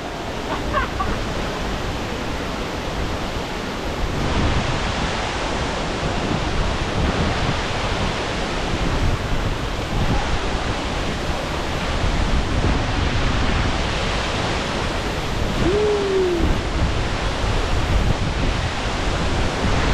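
Steady roar of a waterfall, Thompson's Falls, growing louder about four seconds in. A single short arching tone sounds about sixteen seconds in.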